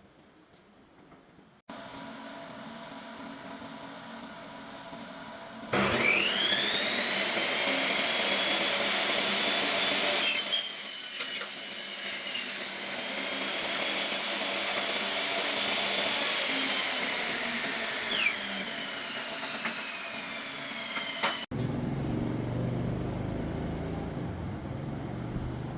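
An electric power tool's motor spins up with a rising whine about six seconds in. It runs loud with its pitch slowly sinking, as if under load, and cuts off abruptly near the end, leaving a low hum. Before it starts there is a steady hiss.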